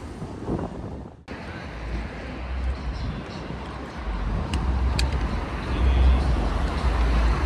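City street ambience: a steady wash of traffic noise with wind buffeting the microphone in heavy low rumbles, stronger in the second half. The sound cuts out briefly about a second in, as at an edit.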